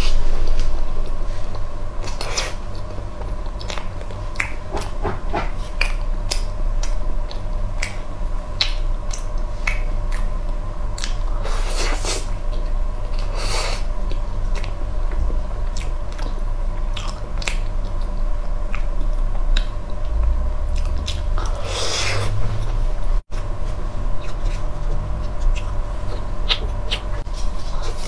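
Close-miked chewing and mouth sounds of a person eating soft matcha mousse cake from a spoon: scattered wet clicks and smacks over a steady background hum.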